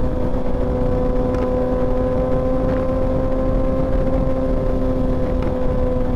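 Motorcycle engine running at a steady cruise, holding an even pitch, over a steady low rumble of wind and road noise.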